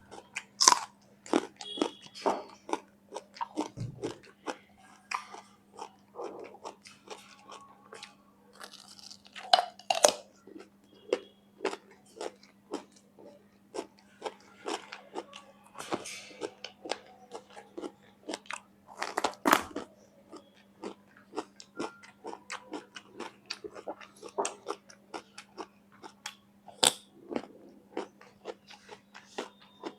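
A person biting and chewing raw vegetables: a steady run of crisp crunches and chewing clicks, with a few much louder bites scattered through, over a faint steady low hum.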